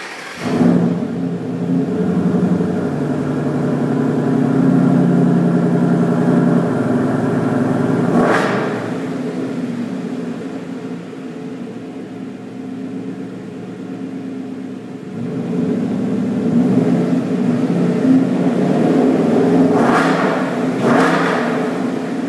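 Ford Boss 302's 5.0-litre V8 through an exhaust with the baffles removed, starting up suddenly about half a second in and then running at a deep, steady idle. There is a short sharp rev about eight seconds in and two more near the end.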